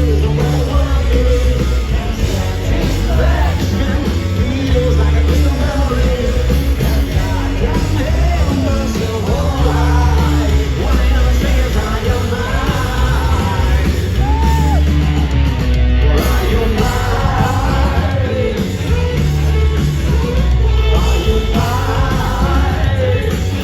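Rock band playing live at full volume: heavy bass and drums with sung vocals over the top.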